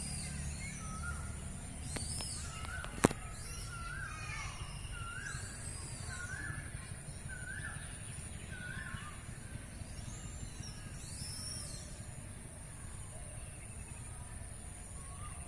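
Birds calling in the open. One bird repeats a short rising-and-falling call about once every three-quarters of a second for several seconds, over scattered higher chirps and a steady high-pitched buzz. A single sharp click about three seconds in.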